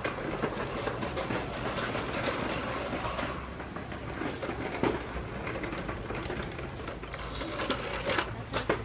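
Small electric motor of a toy motorcycle whirring steadily, with a rattling, clicking texture and a few short clicks.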